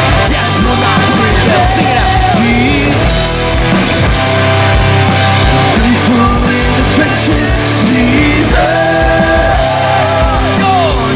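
Rock band playing live and loud: a steady kick-drum beat under a dense wall of band sound, with a sustained melodic line that slides between notes.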